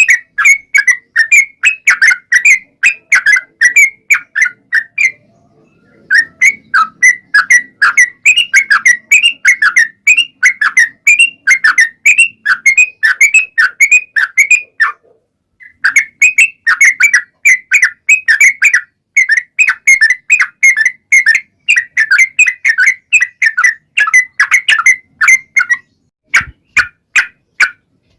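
Yellow-vented bulbul (trucukan) singing a long, rapid string of repeated chirping notes, several a second, breaking off briefly twice and ending in a few scattered notes.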